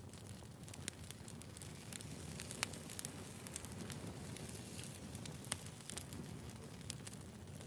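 Wood campfire burning: a steady low rush of flame with irregular sharp crackles and pops, one louder pop about two and a half seconds in.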